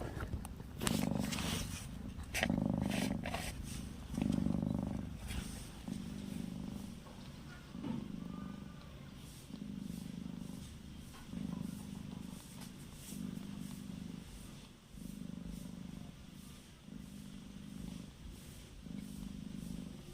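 Domestic cat purring in steady cycles, about one every one and a half seconds, with a few clicks and rustles in the first few seconds.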